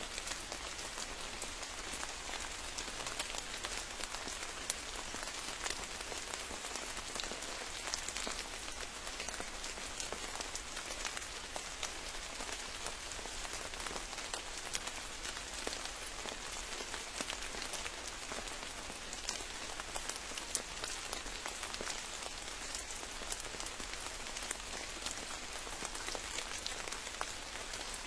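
Steady rain falling, with many separate drops ticking sharply through an even hiss.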